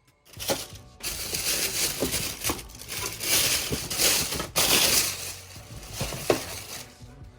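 Packaging crinkling and rustling as it is handled and pulled from new shoes, a dense crackling that goes on in waves for several seconds and dies down near the end.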